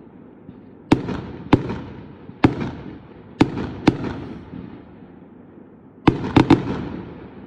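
Fireworks going off: about eight sharp bangs at uneven intervals, some in quick pairs and a cluster of three near the end, each trailing off in a fading crackle and rumble.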